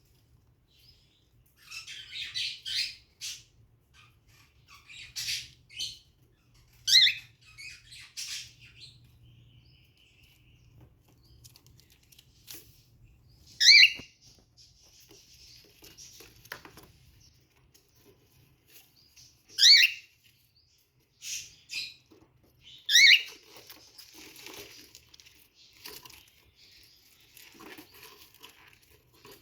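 Cockatiels calling: four loud, sharp calls a few seconds apart, with bursts of rustling and wing-flapping between them.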